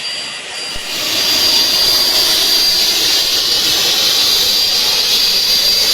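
Gas vapour hissing steadily out of a leaking LPG storage tank, loud and high, with a faint thin whistle in it; it gets louder about a second in and then holds steady.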